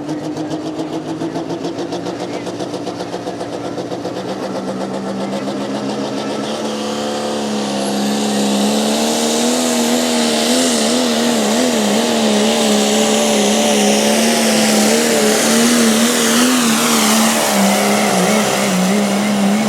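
Pulling vehicle's engine running at high revs under full load during a pull, its pitch held high and wobbling up and down, getting louder about seven seconds in.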